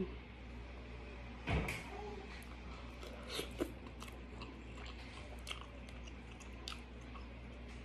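Close-up mouth sounds of a person eating by hand: wet chewing with small clicks, and a single knock about one and a half seconds in.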